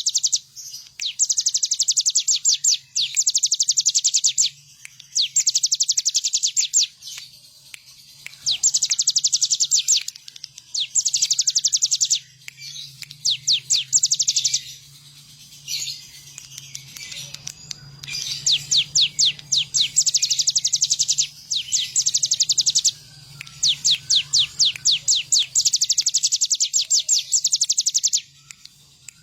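Ciblek gunung, a prinia, singing vigorously in repeated bursts of fast, sharp, high chip notes, each burst a second or two long with short pauses between.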